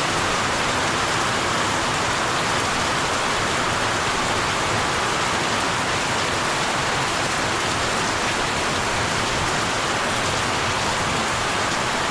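Heavy tropical downpour: a steady hiss of rain pouring down.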